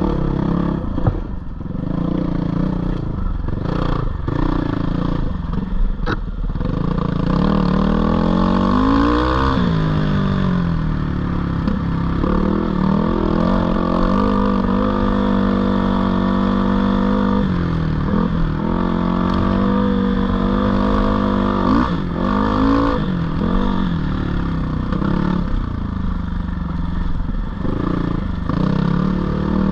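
GPX 450R single-cylinder four-stroke dirt bike engine running under way, the revs rising and falling with the throttle, with marked revs-up about a third of the way in and again about three-quarters through. There are a few sharp knocks and clatters from the bike over rough ground.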